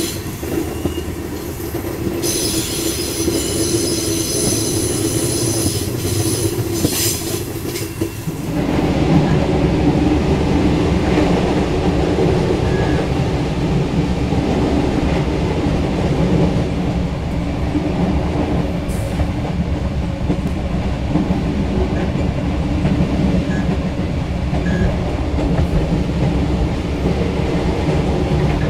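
Train running on the rails, its wheels squealing high on a curve for a few seconds. About eight seconds in the sound jumps to the louder, deeper running of KTM diesel locomotive 25105 heard close from behind, over the wheels on the track.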